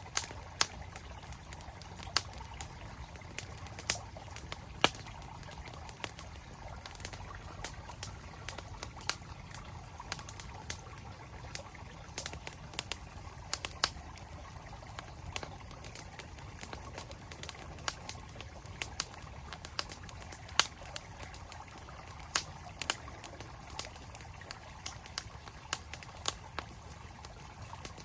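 Campfire crackling, with many sharp pops of burning wood at irregular intervals over the steady rush of a flowing mountain stream.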